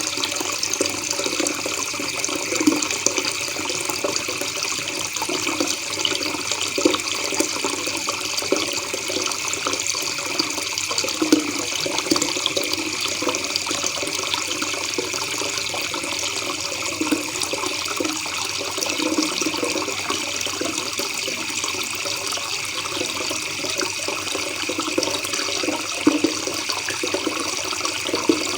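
River water babbling and gurgling steadily, with no break.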